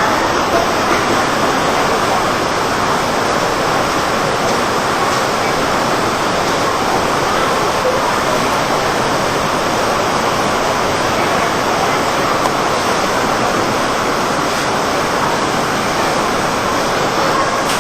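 Khone Phapheng Falls on the Mekong River: a steady, even rush of water pouring over the cascades.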